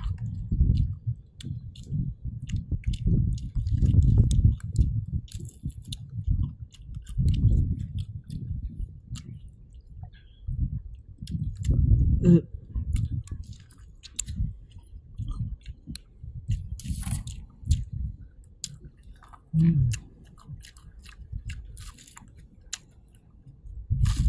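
Close-up chewing and biting of mango, a dense run of wet mouth noises with many small clicks and smacks. There are two brief hums of the voice, about twelve seconds in and again near twenty.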